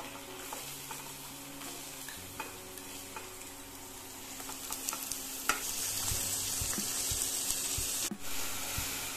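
Diced potatoes and onions sizzling in hot oil in a steel kadai as the potatoes are spooned in and stirred, with small clicks of a spoon and spatula against the bowl and pan. The sizzle grows louder about halfway through.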